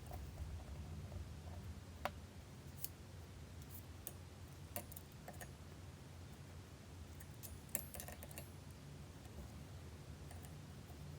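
Scattered light clicks and taps of a micrometer and tools being handled while measuring crankshaft journals, with a small cluster of clicks about eight seconds in, over a low steady hum.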